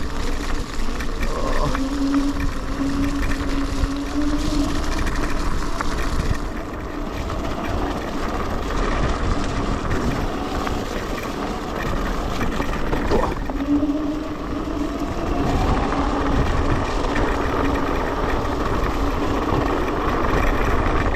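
Electric scooter ridden over a muddy off-road track: a continuous rumble of tyres and wind on the microphone, with the motor's whine rising in pitch twice as it speeds up.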